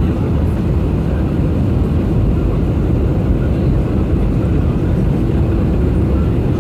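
Airbus A321 airliner in flight: a steady low roar of jet engines and airflow that holds level and doesn't change.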